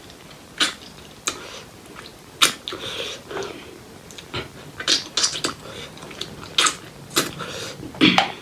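A person eating pork leg curry and rice close to the microphone: wet chewing with sharp mouth smacks and clicks about once a second, and a quick cluster of them near the middle.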